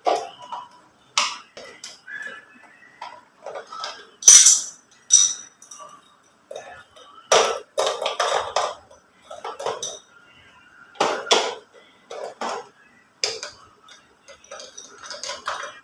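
Small plastic toy parts clicking and clattering irregularly as a toy motorbike is fitted together by hand, with a few louder rattles of parts being handled.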